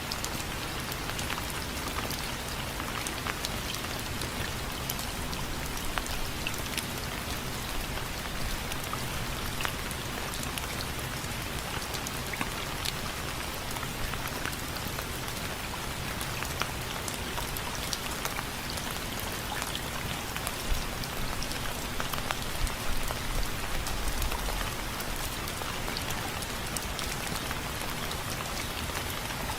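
Steady rain falling on window frames, with many individual drops ticking sharply against the frame and a few louder drop hits a little past the middle.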